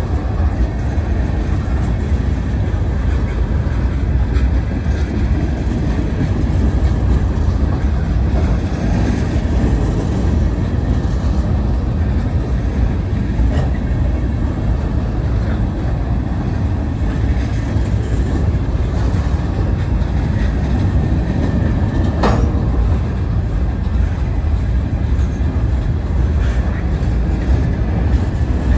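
Freight train cars, gondolas and a covered hopper, rolling past close by: a steady low rumble of steel wheels on rail with scattered faint clicks. One sharp clank comes about three-quarters of the way through.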